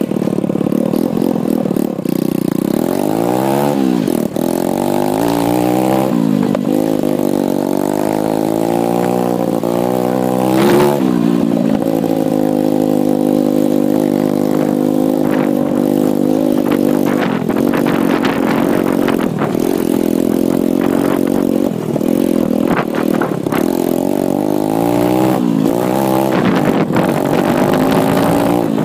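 A 125cc pit bike's single-cylinder engine running under riding load, its pitch climbing and dropping several times as it is revved through the gears, then holding steadier with scattered rattles and knocks.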